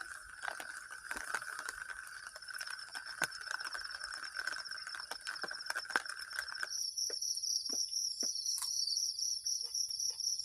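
Crickets and other insects trilling steadily, with scattered light taps. About two-thirds of the way through, the insect chorus changes abruptly to a stronger, faster-pulsing high trill.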